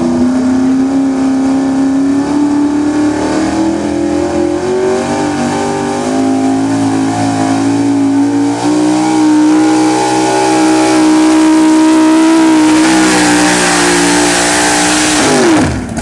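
Pulling truck's engine at full throttle, hauling a truck-pull sled under heavy load. Its pitch climbs over the first few seconds, then holds high with small wavers, and drops away sharply near the end as the throttle is let off.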